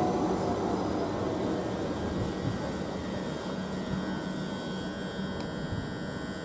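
Class 387 electric multiple unit coming to a stand at the platform: its running noise slowly dies down, a faint falling whine fades out, and a steady low hum from the standing train's equipment remains.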